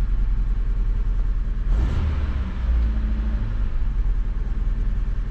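A Fiat Punto Mk1's petrol engine idling steadily on a cold start, with the idle speed creeping up a little as a cold engine does. A brief rush of louder noise comes about two seconds in.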